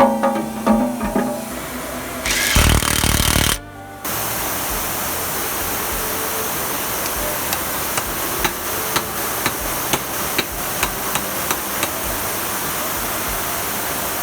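Workshop tool sounds. About two seconds in comes a loud burst lasting over a second, then a steady hiss with a run of light taps, roughly two a second.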